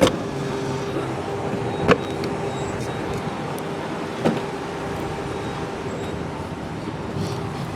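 Gas station background: a steady hum with a couple of sharp clicks, one about two seconds in and one a little past four seconds.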